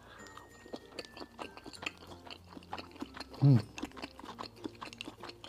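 Close-miked chewing of a soft boiled pork-and-cabbage dumpling coated in chili oil: a steady run of wet smacks and clicks. About three and a half seconds in comes one short, loud hummed 'mm' that falls in pitch.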